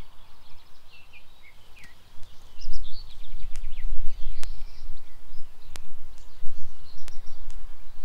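Songbirds chirping and trilling over a low rumble, with a few sharp clicks about four to seven seconds in.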